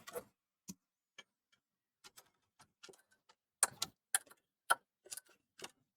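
Scattered faint clicks and taps of hands and small tools handling a game console's plastic casing, a few sharper ones in the second half.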